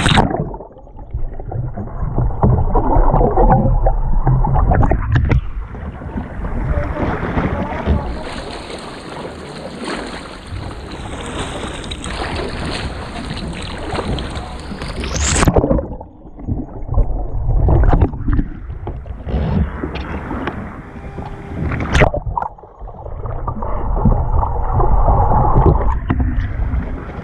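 Water sloshing and splashing around a kayak being worked in a pool, with heavy rumbling noise, loud and uneven. There are a few sharp knocks, one about 15 seconds in and another about 22 seconds in.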